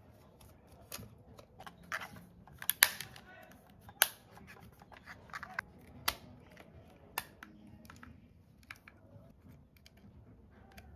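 Handling noise from small hard plastic parts: a scattering of sharp clicks and taps, with about five louder ones a second or more apart and faint rustling between.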